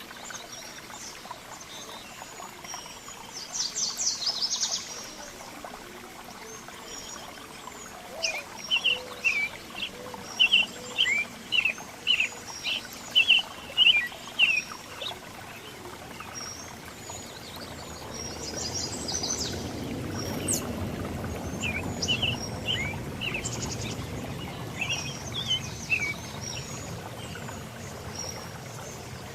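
Songbirds calling: a brief rapid chatter, then a run of about a dozen loud, short, high notes in quick succession, followed by scattered chirps. A steady background noise underlies it, with a low rumble joining in the second half.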